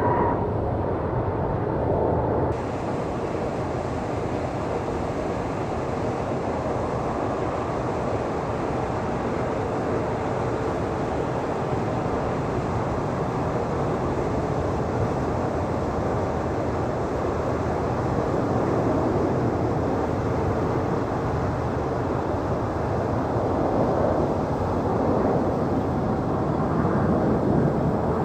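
Boeing 737-900ER jet airliner's CFM56-7B turbofans on an arrival to land: a steady rumble with a faint steady whine, swelling slightly toward the end. It starts after an abrupt cut about two seconds in from another jet's sound with higher whining tones.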